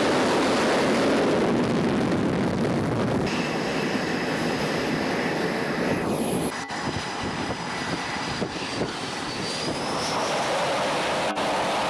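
Jet aircraft engine noise, a loud rush with a high whine over it; the sound changes abruptly about three seconds in and again around six and ten seconds in.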